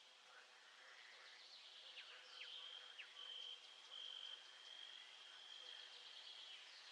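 Faint nature ambience: a steady high trill with scattered bird chirps and a few quick falling whistles about two to three seconds in.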